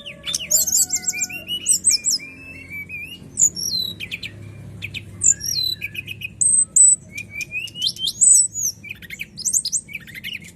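Songbird singing a varied, rapid song of clear whistled notes, quick rising and falling sweeps and short trills, phrase after phrase with hardly a pause.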